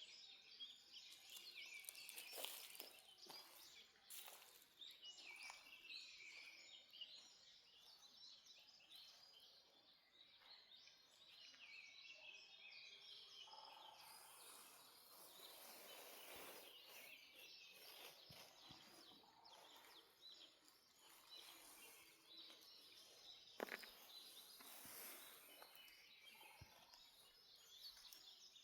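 Dawn chorus of many songbirds: a dense overlap of chirps and trills, heard faintly. A single sharp click comes about two-thirds of the way through.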